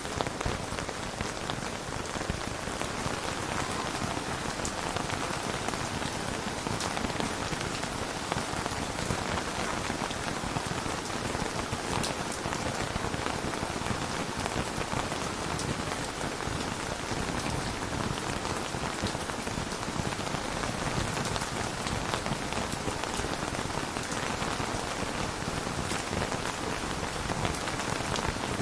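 Steady rain falling, an even hiss of drops with an occasional sharper single drop.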